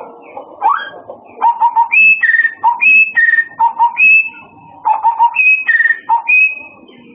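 A murai (Copsychus songbird) singing. It repeats a phrase of a few quick low notes followed by two clear whistles, the first high and the second a little lower, about once a second.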